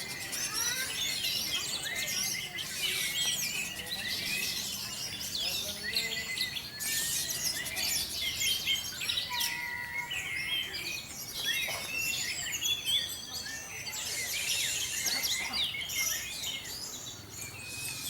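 A dense chorus of many caged songbirds, orange-headed thrushes among them, singing at once: overlapping high whistles, trills and chirps without a break.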